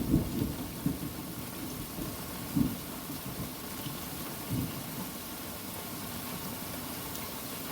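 Thunderstorm: a low rumble of thunder fades out in the first second or so, with a few short low thumps after it, over steady rain.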